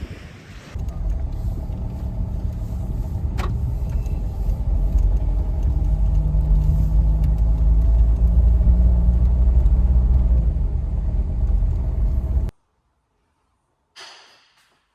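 A loud, steady low rumble of an engine or motor with a few steady tones in it, starting about a second in and cutting off abruptly near the end. A brief hiss follows.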